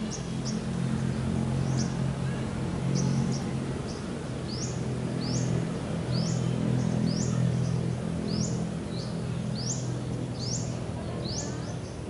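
Bilad-bilad bird giving short, sharp high chirps, repeated about once or twice a second, over a low steady hum.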